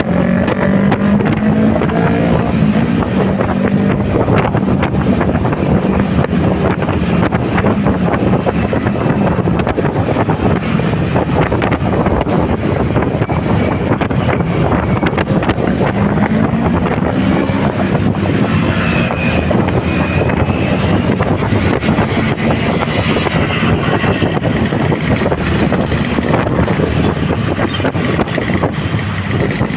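Motorcycle engine running under way, its pitch rising and falling with the throttle, mixed with wind noise on the microphone.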